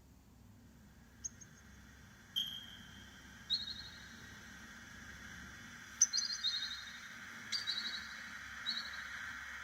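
Synthesized forest ambience from a custom oscillator on a Korg NTS-1 synthesizer: a steady hiss with short, high, trilled bird-like chirps every second or two, each opening with a sharp click. The hiss and chirps grow gradually louder.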